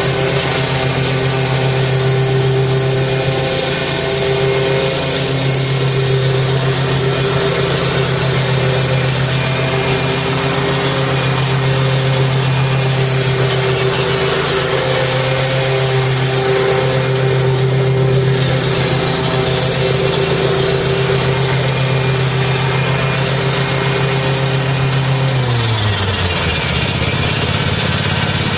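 A 2005 Exmark Turf Tracer HP mower's 17-horsepower Kawasaki engine running steadily, then its pitch drops quickly near the end and settles lower as it is throttled back.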